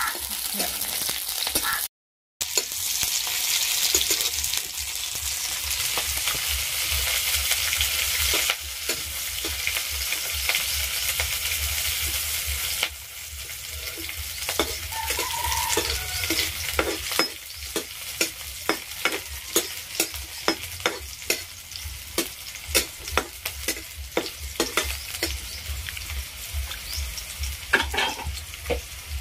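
Sliced onions and green chilies sizzling in hot oil in a steel kadai, stirred with a metal spatula. The sizzle is loudest for the first third. After that it is quieter, and the spatula taps and scrapes the pan in a steady run of clicks, about two a second. There is a brief dropout about two seconds in.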